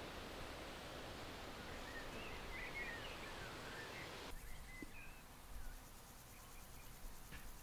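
Small birds chirping intermittently over a steady hiss of background noise, which cuts off sharply about four seconds in.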